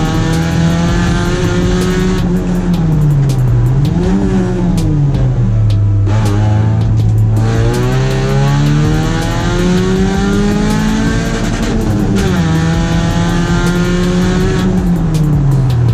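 Rally car engine running hard through a slalom course. Its pitch climbs and falls several times as it accelerates, lifts off and changes gear.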